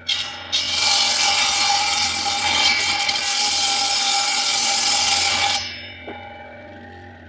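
Homemade circular saw driven by an old washing-machine motor, cutting for about five seconds: a loud rasping cut over the steady whine of the spinning blade. It then stops cutting and runs free with a quieter, even whine.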